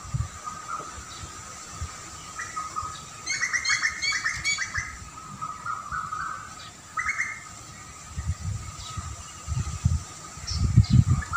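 Wild birds chirping: a quick run of short chirps about three seconds in, another brief burst about seven seconds in, and scattered faint chirps after. A faint steady high tone runs underneath, with low rumbles toward the end.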